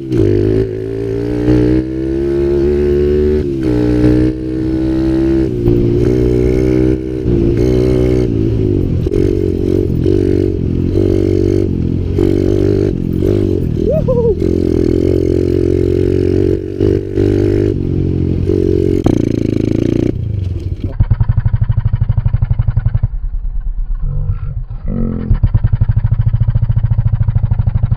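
Kawasaki KLX110L pit bike's small single-cylinder four-stroke engine, fitted with a Pro Circuit aftermarket exhaust, revving up and down as it is ridden. For the last several seconds it settles into a steadier, lower, evenly pulsing beat.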